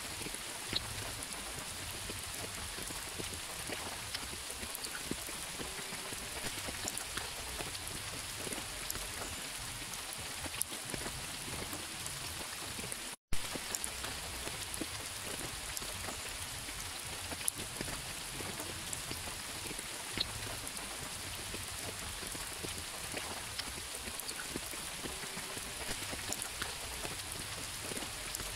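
Steady rain falling: a dense even hiss with scattered individual drop taps. It cuts out for an instant about thirteen seconds in.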